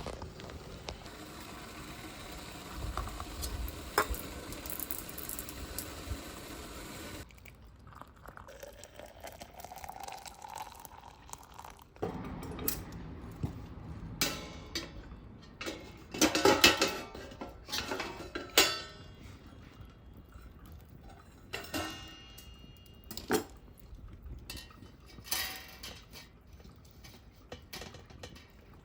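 Metal cookware and utensils clinking and knocking in a run of separate sharp strikes, loudest around the middle.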